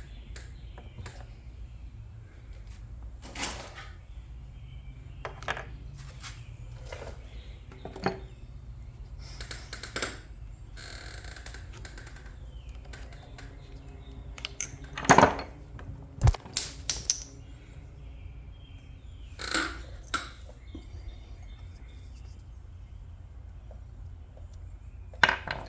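Scattered clicks and knocks of small hard parts being handled while a filter on a Homelite leaf blower is changed, with a louder cluster of knocks about fifteen seconds in, over a steady low hum.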